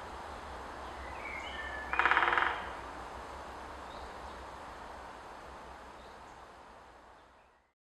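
Great spotted woodpecker drumming: one short, rapid roll of bill strikes on wood about two seconds in, the loudest sound here. A few thin bird calls come just before it over a steady outdoor background, which fades out near the end.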